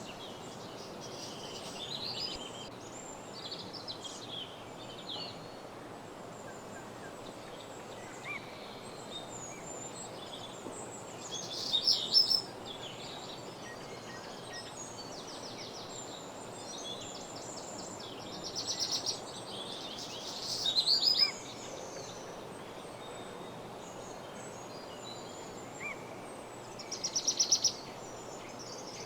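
Woodland songbirds singing: loud rapid trilled song phrases every several seconds, with scattered short chirps between them, over a steady background hiss.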